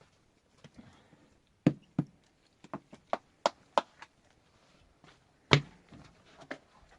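About nine sharp knocks at irregular intervals: a quick run of them in the first half and the loudest about five and a half seconds in.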